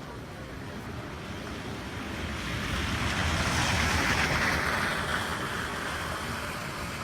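A vehicle passing along a wet street, its tyres hissing on the wet road: the sound swells up, is loudest about four seconds in, then fades away.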